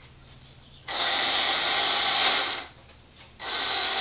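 Battery-powered electric motor and gearing of a 1965 Marx Big Job toy dump truck's power steering, whirring in two bursts of under two seconds each as it turns the front wheels, starting about a second in and again past the three-second mark.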